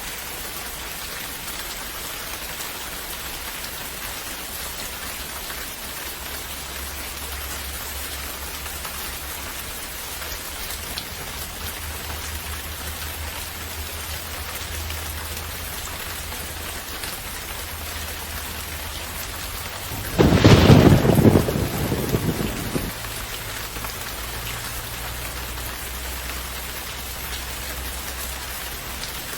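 Steady rain falling, with a low rumble underneath. About two-thirds of the way through, a clap of thunder breaks in suddenly and rumbles away over a couple of seconds.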